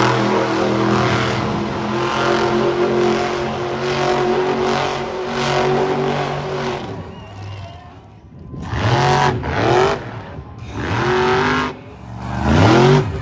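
Monster truck engine running loud at steady high revs, then fading. Afterwards it is revved in about four short blips, the pitch rising and falling each time.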